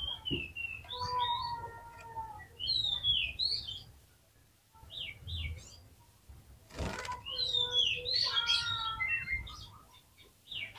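Oriental magpie-robin (kacer) singing in bursts of varied whistled phrases with quick falling and rising notes, broken by short pauses. This is 'gacor' song of the kind played to provoke other magpie-robins. A brief hiss-like noise comes about seven seconds in.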